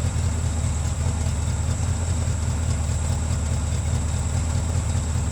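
V8 engine of a 1971 Ford Mustang Mach 1 idling steadily while it warms up after a cold start.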